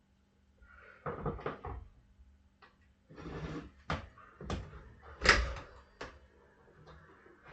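Hand work on a dirt bike tire being fitted over its rim: a series of clunks and scraping knocks, roughly one a second, the loudest about five seconds in, over a faint steady low hum.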